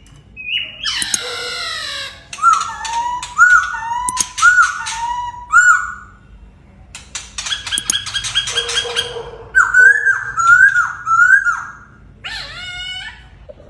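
Song contest between a white-rumped shama (murai batu) and a Chinese hwamei (Poksay Hongkong): loud phrases of repeated rising-and-falling whistles mixed with rapid clicking rattles and a harsh buzzy call about a second in, with short pauses between phrases.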